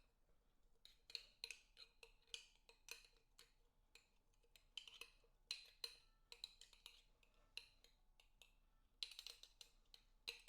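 A utensil knocking and clicking against a bowl as cucumber salad is mashed and tossed in its dressing: quick, uneven taps in little clusters, several a second.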